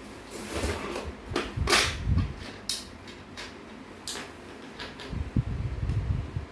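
Sharp hard-plastic clicks, knocks and low thuds of a computer monitor and its stand being handled and fitted together. Clicks come from about half a second in to about four seconds in, and a cluster of low thuds and taps follows near the end.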